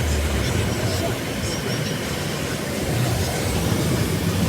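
Automatic car wash heard from inside the car: a steady low rumble under an even wash of spraying and machinery noise.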